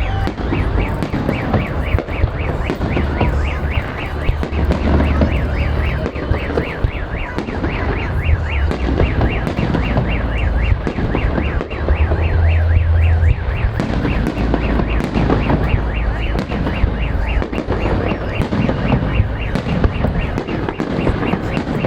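Fireworks going off, with deep booms and sharp cracks, while a car alarm beeps rapidly and evenly, about three beeps a second.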